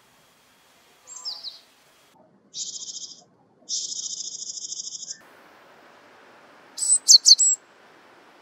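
A small wild songbird calling: two quick high descending notes, then two buzzy, rattling calls, the second about a second and a half long, and a short burst of sharp, very high notes near the end.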